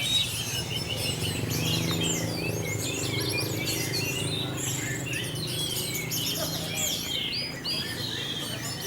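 Many caged songbirds singing at once, a dense tangle of overlapping chirps, trills and whistles, over a steady low hum.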